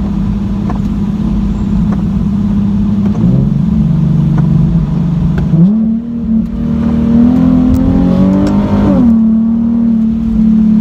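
Nissan 370Z's 3.7-litre V6 through a muffler-deleted exhaust, heard from inside the cabin, running loud with a steady drone. The engine note drops a little about three seconds in, jumps up sharply with a downshift about five and a half seconds in, climbs higher, then falls back near nine seconds.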